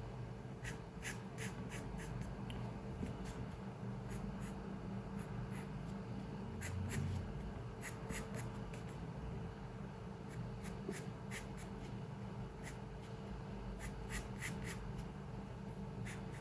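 Drawing strokes on paper: clusters of quick, short scratches with brief pauses between them, over a steady low room hum. A soft low bump about seven seconds in.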